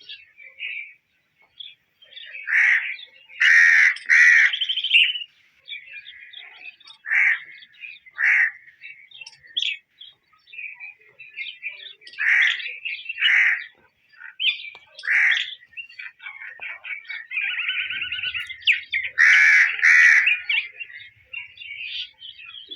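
A bird calling repeatedly: loud harsh calls, some in quick pairs, among softer chirps.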